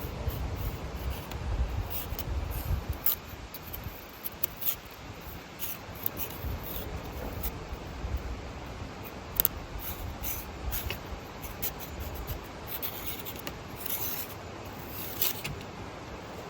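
A cat playing with a tree branch: irregular rustling, scratching and scraping of twigs, with sharp ticks and a few low thumps, mostly in the first few seconds.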